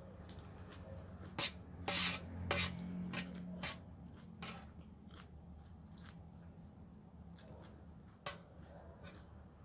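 A person eating a raw vegetable salad: a scatter of sharp clicks and crunches, busiest from about one to four seconds in, with one more near the end, over a low steady hum.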